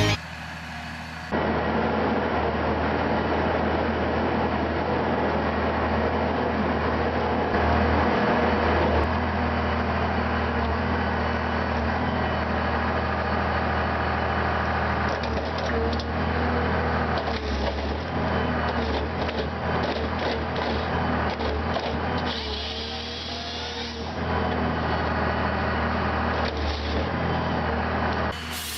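An engine-driven wood-processing machine runs with a steady hum, and wood cracks and splinters now and then, most often in the second half.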